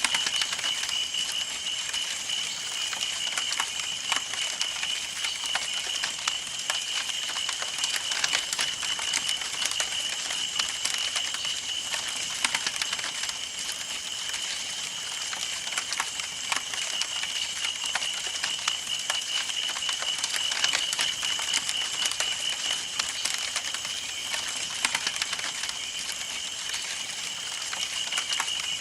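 Campfire burning with a constant, dense run of irregular crackles and pops over a soft hiss of flames. A steady high-pitched tone runs underneath.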